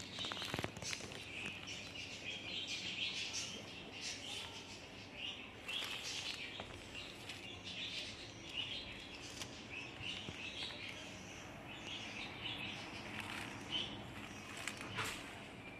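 Small birds chirping, a dense run of short, high chirps that goes on without a break.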